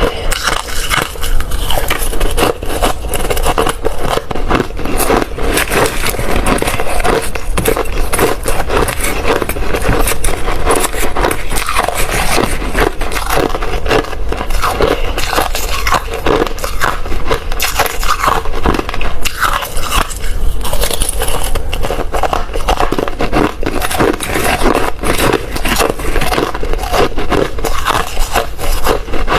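Hard ice being bitten and chewed close to the microphone: a loud, continuous run of crunching and cracking.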